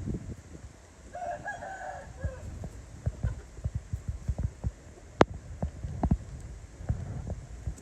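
A rooster crows once, briefly, about a second in. Low thumps and knocks come and go throughout, the loudest a sharp click about five seconds in.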